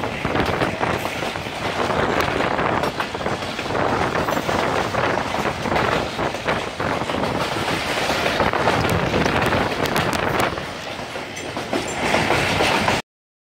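Train running along the track, heard from aboard a moving carriage: a steady rushing noise with wheels clattering over the rail joints. It dips briefly near the end, then cuts off abruptly.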